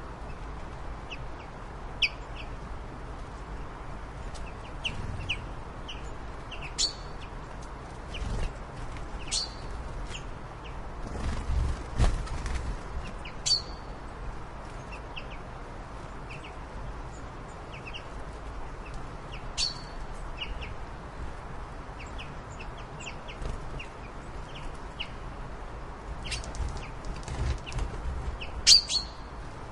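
Birds chirping: short, scattered high calls over a steady low rumble, with a louder swell of rumble about halfway through and the loudest chirps near the end.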